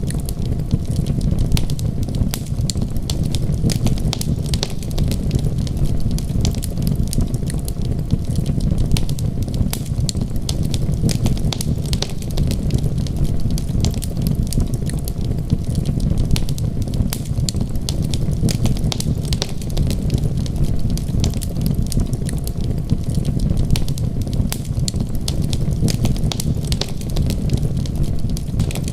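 Wood fire crackling with frequent small sharp pops over a steady low rumble.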